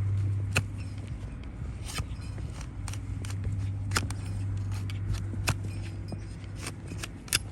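Donkey hoof horn being cut with hoof-trimming tools: irregular sharp clicks and snips, about one or two a second, with a louder snap near the end, over a steady low hum.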